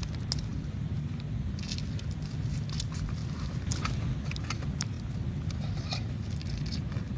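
A steady low rumble with scattered short, sharp clicks and crackles on top.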